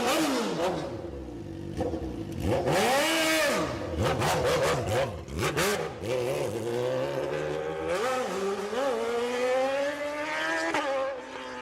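Car engine revving hard several times, its pitch sweeping up and falling back, with a few sharp crackles in the middle. Toward the end it holds a long, slowly rising rev with two quick blips on the throttle.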